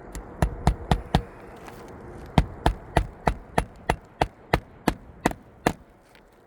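Hammer blows during an asphalt shingle roof repair: a quick run of four strikes, a short pause, then about eleven steady strikes at roughly three a second.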